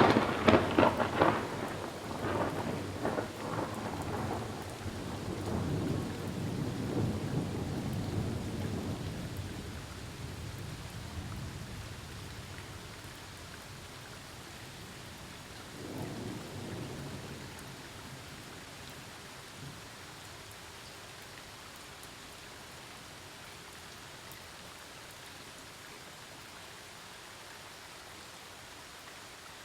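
A close thunderclap crackles at the start and rolls into a long rumble that fades over about ten seconds; a fainter roll of thunder comes about sixteen seconds in. Steady rain hisses throughout.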